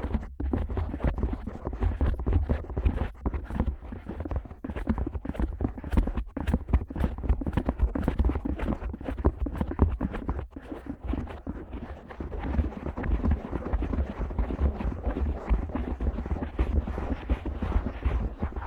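Fingers scratching the ear flaps of a Neumann KU100 dummy head microphone: rapid, irregular scratching strokes with deep thuds close up on the mic's ear. About twelve seconds in the scratching turns denser and rougher.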